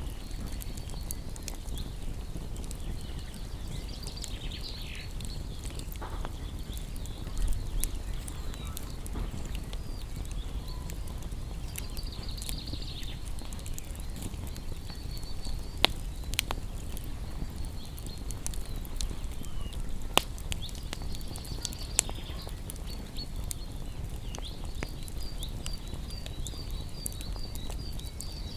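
Wood fire crackling, with a low steady rumble and frequent sharp pops, a few of them louder than the rest. Small birds chirp and trill throughout, including a brief falling call a few seconds in and a quick run of repeated notes near the end.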